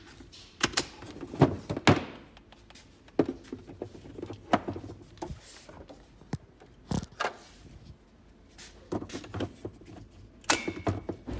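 About a dozen irregular knocks and clunks, with light rattling in between, of equipment being handled and set down.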